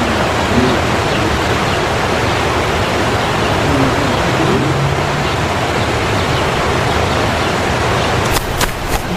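A steady, loud rushing hiss that does not change, with a few faint, short, low-pitched sounds about four seconds in.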